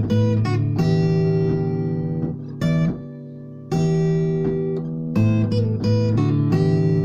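Instrumental music on acoustic guitar: held chords that change every second or two, with a short dip in level about three seconds in.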